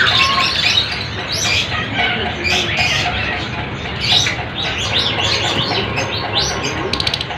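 A flock of lovebirds chirping, with many short, high calls overlapping without a break, over a steady low hum.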